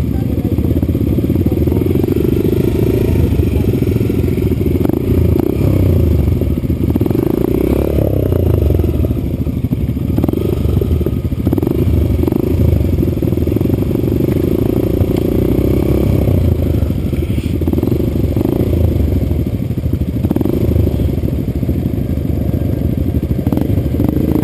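Yamaha XTZ trail motorcycle engine running under way, its revs rising and falling as it is ridden off-road. Short rattles and knocks come through over the engine note.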